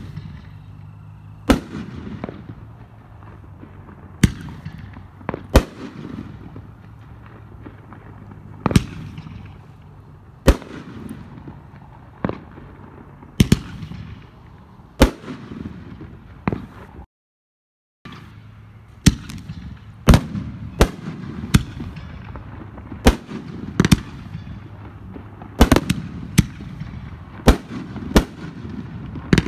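Aerial fireworks going off: sharp reports every one to two seconds with crackle trailing after, from the Love Potion No.7 500 g cake. After a short dropout about halfway, 24 Neon canister shells fire with reports coming closer together.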